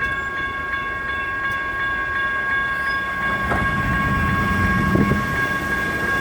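Electronic railroad-crossing bells ringing steadily in an even pulse, over the low rumble of a freight train rolling through the crossing.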